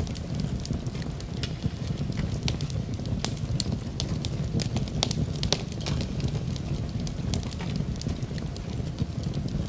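Wood fire crackling in a fireplace: irregular sharp pops and snaps over a steady low rumble of burning, with a soft steady hiss of rain beneath.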